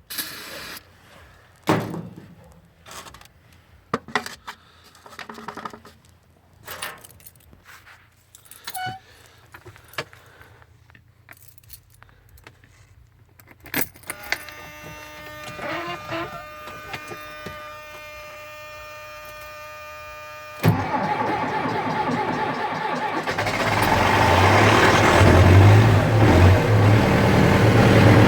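Scattered clicks, knocks and jangling for the first half, then a steady hum for several seconds. About two-thirds of the way in, the MTZ Belarus 1025's four-cylinder diesel engine is cranked and catches within a couple of seconds, then runs loud and rising: a cold start at −17 °C helped by starting fluid.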